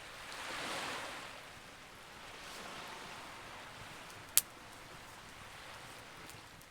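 Campfire burning with a steady hiss and a soft rushing swell near the start, then one sharp, loud pop from the burning wood about four and a half seconds in.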